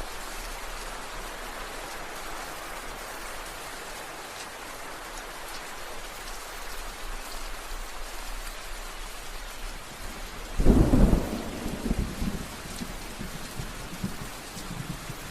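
Steady rain falling. About ten seconds in, a loud clap of thunder breaks in and rumbles on for a few seconds.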